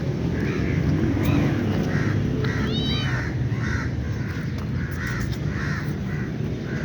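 Crows cawing over and over in short harsh calls, two to three a second, over a steady low rumble. About three seconds in, one short high call rises and falls in pitch.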